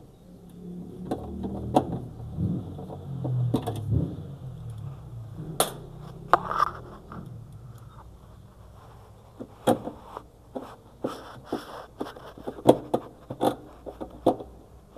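Scattered clicks, knocks and scrapes of tools and parts being handled while a washing machine is put back together, with a low rumble in the first few seconds and the knocks coming thicker in the second half.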